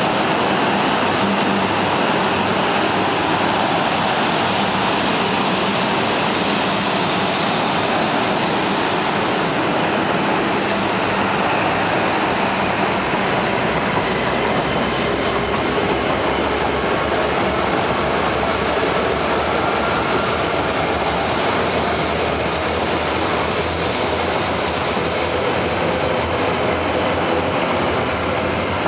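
Coupled E6 and E5 series Shinkansen train rolling along the platform: a steady, loud rumble of wheels on rail with light clatter and a faint whine.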